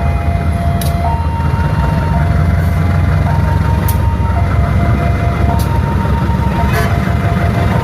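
Railway level-crossing alarm sounding its two-tone warning, stepping between a lower and a higher tone about once a second, over the heavy low rumble of a train passing, with a few sharp clacks.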